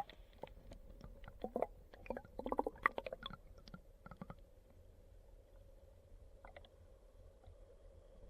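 Mountain stream water gurgling and bubbling, with a quick run of small pops and clicks over the first few seconds, then a fainter steady gurgle.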